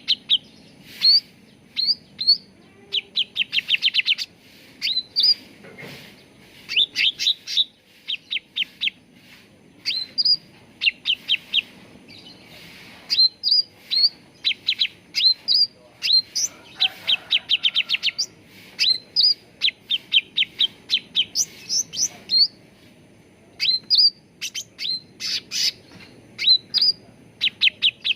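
Cucak ranting singing: quick runs of short, high chirping notes, several to a run, repeated over and over with brief pauses between runs.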